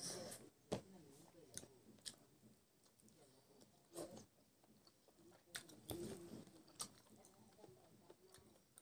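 Close-miked eating sounds of a man chewing a hand-fed mouthful of rice and pig intestine: soft chewing with wet mouth clicks and smacks, a few sharp ones spaced a second or so apart.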